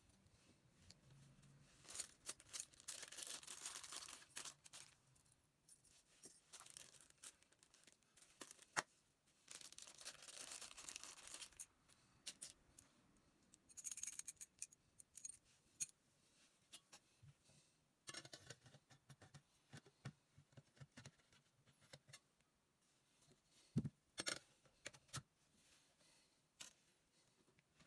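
Faint hand-work noises: scattered clicks, clinks and knocks of small metal parts and tools, with two short spells of rustling or scraping a couple of seconds long.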